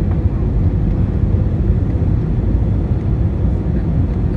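Airliner cabin noise heard from inside the cabin: a steady low rumble with a faint hum above it.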